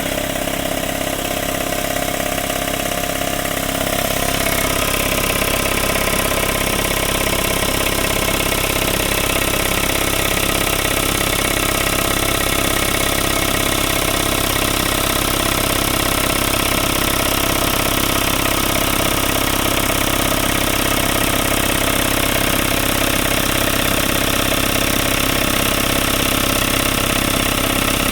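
Craftsman 5 HP 20-gallon air compressor (Sears model 919.716850) running steadily, its electric motor and pump filling the tank on an auto cycle. It gets louder and fuller about four seconds in.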